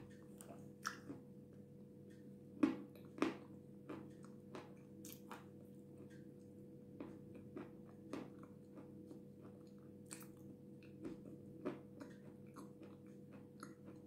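Close-up chewing of a dry, powdery lump of jasmine edible clay: irregular crunches and wet mouth clicks, the two loudest about three seconds in, over a faint steady hum.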